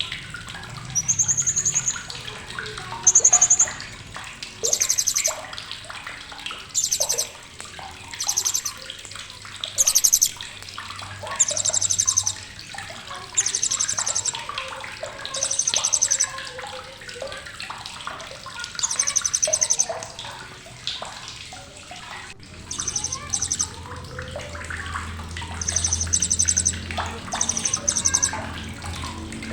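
Blue-crowned hanging parrot (srindit) giving sharp, high-pitched chattering calls: short, rapid trills repeated every second or two, with a brief pause about two-thirds of the way through, over faint background noise.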